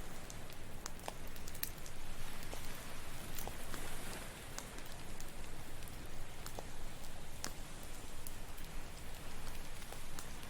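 Campfire crackling, with irregular sharp pops and snaps of burning wood, over a steady wash of ocean waves.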